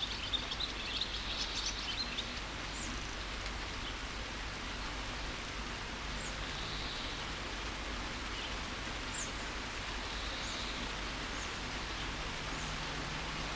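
Steady rain falling, with a flurry of high bird chirps in the first couple of seconds and a few short high calls later on.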